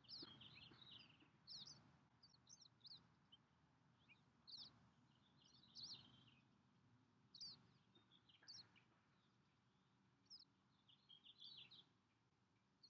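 Faint bird chirps: short, high notes coming irregularly every second or so, over a soft steady background noise.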